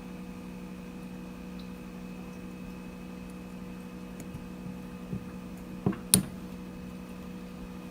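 A steady hum with a few short, sharp clicks or taps, the loudest two close together near the end.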